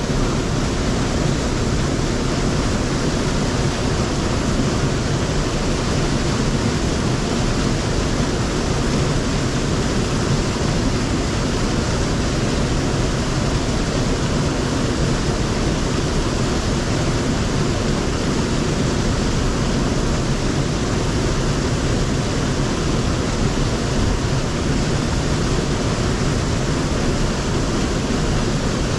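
Steady, loud rush of mountain-stream water flowing over rocks, unchanging throughout.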